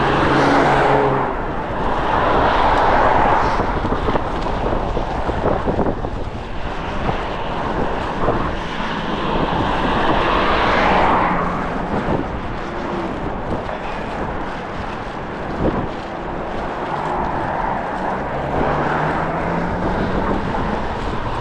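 Strong gusty wind buffeting the microphone while vehicles pass on the road, the traffic swelling and fading several times, with a low engine hum at moments.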